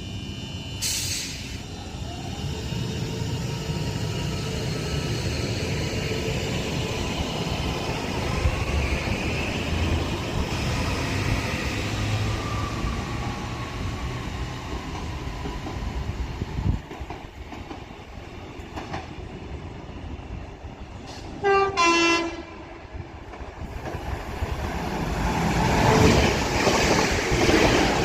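Northern Class 331 electric multiple unit pulling away, its traction motors whining upward in pitch. About 21 seconds in, a short two-tone train horn sounds, high note then low, from a doubled-up Northern Class 323 electric unit. The 323 then runs through at speed, its rail and wheel noise swelling to the loudest point near the end.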